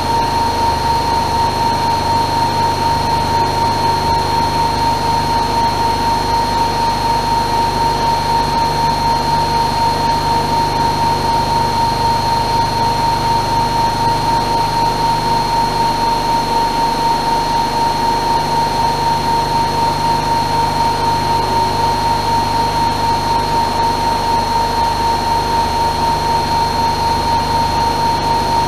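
AEG Öko-Lavamat Lavalogic 1600 front-loading washing machine spinning at high speed. Its motor gives a loud, steady high-pitched whine over a rushing drum noise, with a slight regular pulsing.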